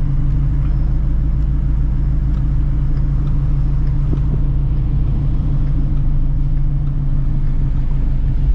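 Straight-piped Ford Shelby GT350's 5.2-litre flat-plane-crank V8 running at a steady low rpm, a deep, even exhaust drone with no revving.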